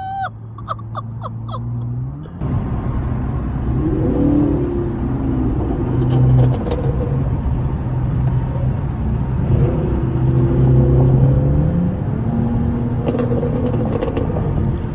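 Car engine revved repeatedly through a loud exhaust, the pitch rising and falling several times, with exhaust crackles and pops.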